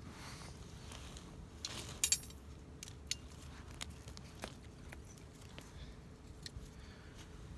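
Wood fire crackling, with sharp pops scattered at irregular moments and a cluster of louder pops about two seconds in, over a low steady rumble.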